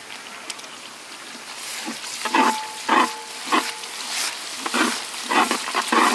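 Onions and ginger-garlic paste sizzling in hot oil in a large metal pot. From about two seconds in, a flat metal ladle scrapes through them about seven times, roughly one stroke every half second, and the pot gives a brief metallic ring during a few of the strokes.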